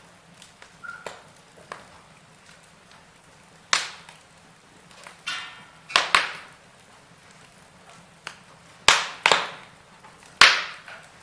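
Wood fire in a fireplace crackling, with irregular sharp pops from the burning logs. The loudest pops come in the second half.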